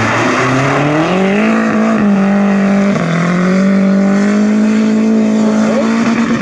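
Rally car engine held at high revs. Its pitch climbs over the first second and a half, dips briefly twice around two and three seconds in, then stays steady.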